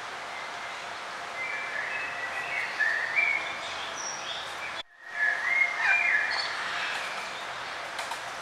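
Wild birds singing short chirping phrases over a steady background hiss. There are two bouts of song, a few seconds apart, and the sound drops out for a moment between them.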